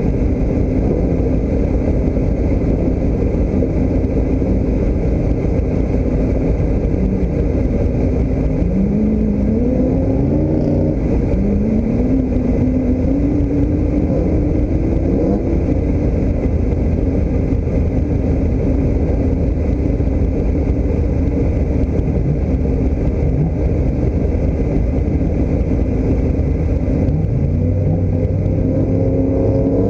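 Car engine running steadily under way with a low rumble, its pitch rising twice in a row about a third of the way in and rising again near the end as it accelerates.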